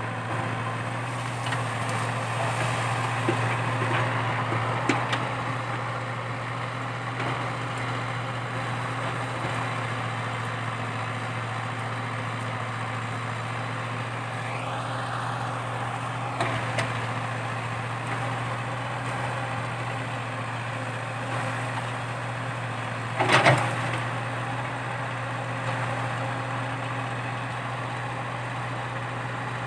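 Komatsu PC80 excavator's diesel engine running steadily while it works, with a brief rising whine midway and a few knocks, the loudest a sharp knock about two-thirds through.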